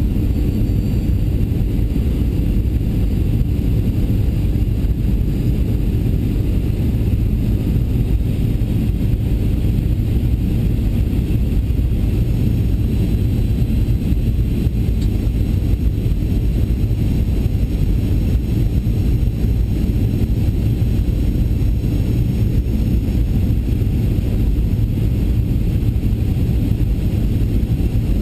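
Steady cabin rumble of a Boeing 737-800 on approach: the CFM56-7B jet engines and airflow make an even low roar with a faint steady whine above it.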